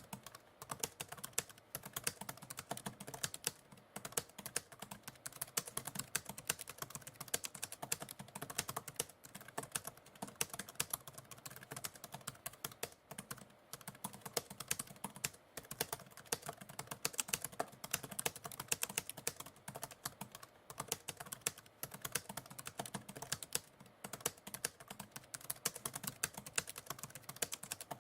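Computer keyboard typing: a steady stream of rapid keystrokes, several clicks a second, with short pauses between bursts.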